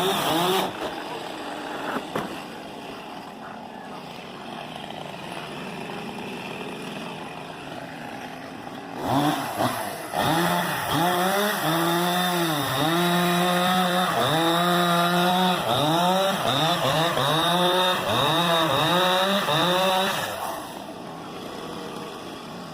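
Chainsaw engine revving hard about nine seconds in, its pitch dipping and climbing again and again for about ten seconds, then stopping. A quieter steady background noise runs before and after it.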